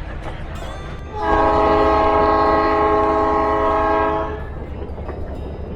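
Budd RDC rail diesel car's horn sounding one long chord of about three seconds, starting about a second in, over the steady low rumble of the rail car running along the track.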